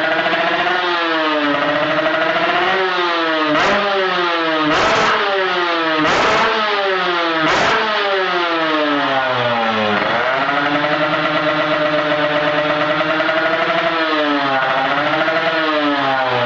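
Kawasaki Ninja drag bike's engine running through a Creampie Z1 racing exhaust, revved up and down over and over, its pitch climbing and dropping. Four short sharp bursts come between about four and eight seconds in; later the revs hold steady for a few seconds before rising and falling again near the end.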